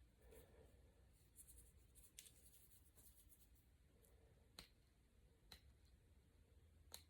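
Near silence, with faint scratching and three light clicks about four and a half, five and a half and seven seconds in: small hand tools working on an iPad's parts.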